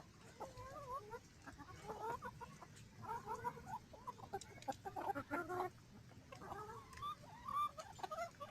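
Backyard chickens clucking and chattering in short, overlapping calls while they eat scraps, with faint ticks of pecking among them.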